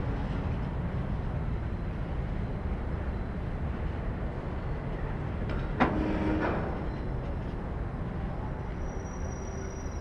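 Freight train rolling through the station with a steady low rumble, and a single sharp clank about six seconds in, followed by a short ringing tone. Thin, high squealing tones from the wheels begin near the end.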